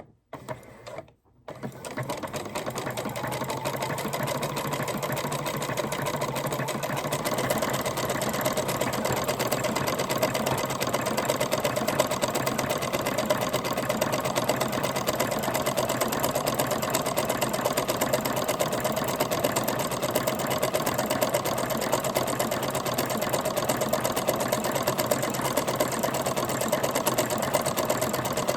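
Janome Memory Craft 9000 sewing machine starting about a second and a half in, then running steadily at speed as it sews a double overedge stitch, two rows of zigzag over the fabric edge.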